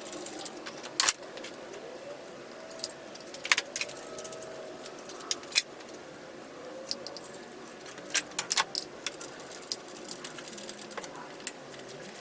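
Metal hand tools clinking and clicking while spark plugs are being worked on in a car engine bay: a dozen or so sharp, irregular clicks, the loudest about a second in and around three and a half seconds in.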